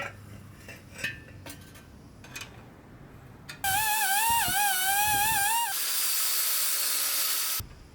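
Electronic logo-reveal sound effect: a loud, wavering synthetic tone over hiss, then a bright hissing sweep that cuts off suddenly. It is preceded by a few seconds of faint background noise with scattered light clicks.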